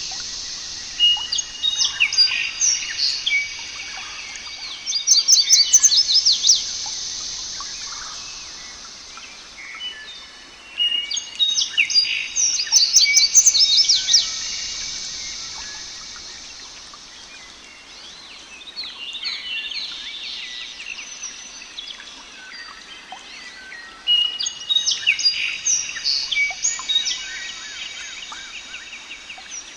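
Songbirds singing: rapid, high, twittering song phrases coming in loud spells every few seconds, with quieter chirping in between.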